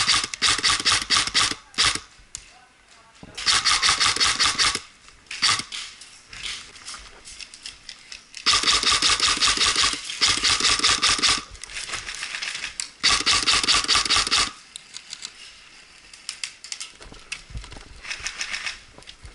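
Airsoft guns firing rapid semi-automatic shots in several strings, each a fast run of sharp clacks, with scattered single shots near the end.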